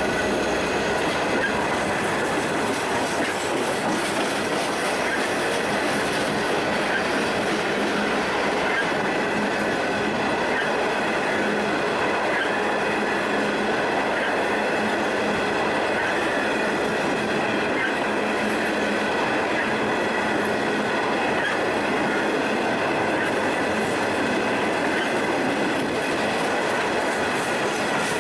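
Train cars rolling steadily past on the track, wheels clicking over the rail joints, with a steady high wheel squeal over the rumble.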